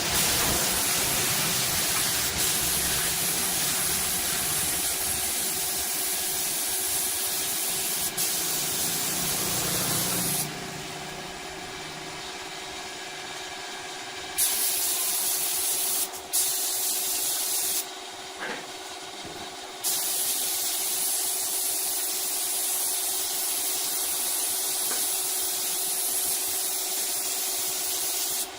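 Loud steady hiss of air, cutting off and restarting abruptly several times midway, over the faint steady hum of a running machine.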